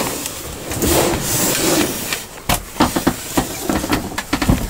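A rustling hiss, then a quick run of knocks and clicks: someone moving about and bumping fittings inside an empty airliner cabin.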